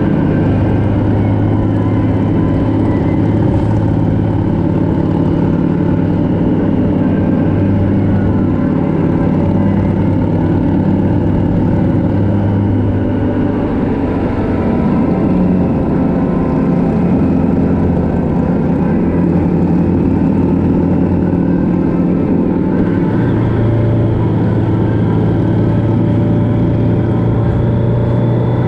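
Motorcycle engine running steadily at road speed over wind rush. The engine note shifts a few times and settles a little higher about 23 seconds in.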